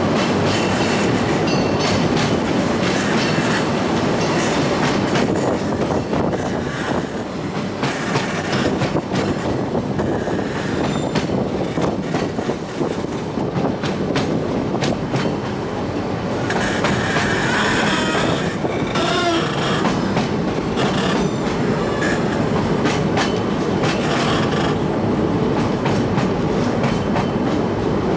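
Oigawa Railway train on its Abt rack line running steadily, a continuous rumble of wheels on rail with frequent clicks and clacks. A brief wheel squeal comes about two-thirds of the way through.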